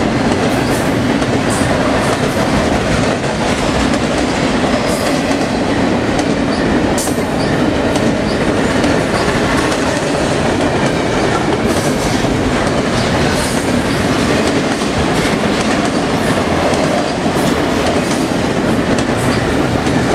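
Double-stack container freight train rolling past: a steady rumble of the loaded well cars, with wheels clattering over the rails and scattered sharp clicks.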